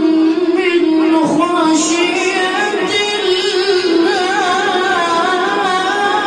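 A child's voice reciting the Quran in melodic chant, holding long, high notes that waver in ornamented turns.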